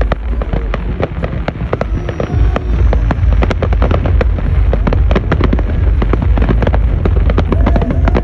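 Fireworks going off in a rapid, dense barrage: many sharp cracks and bangs in quick succession over a continuous deep rumble.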